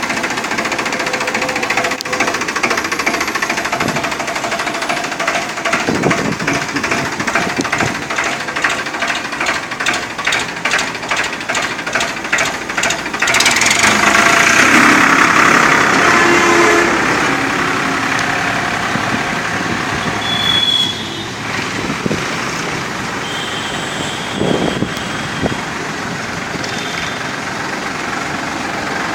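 Farmtrac Champion 41 HP tractor's diesel engine running with a rhythmic pulse; it gets louder for about three seconds around the middle, then settles steady and a little quieter.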